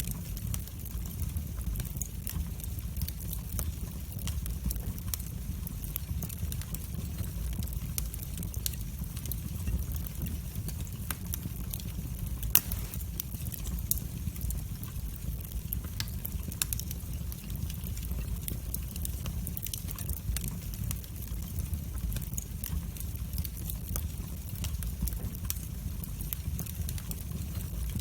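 Wood fire burning in a fireplace: a steady low rumble with scattered sharp crackles and pops, one louder pop a little before halfway.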